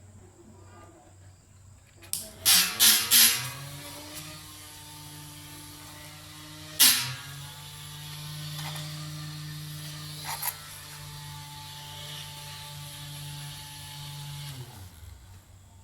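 Small DC toy motor starting after a few sharp clacks of handling and running with a steady hum for about eleven seconds. A sharp knock comes partway through, where its pitch dips for a moment, and the motor then stops near the end.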